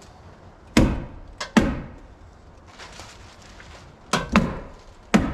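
Hammer blows on wood: about six sharp strikes, in two irregular groups.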